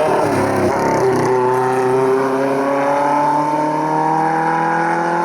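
Race car engine at full throttle, its pitch climbing slowly and steadily as it pulls through a gear. It sounds rough for about the first second before the note settles.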